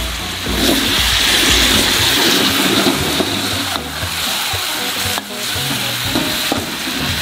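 Beaten egg frying in a hot metal wok, sizzling steadily, while a metal spatula stirs the pad thai noodles beside it.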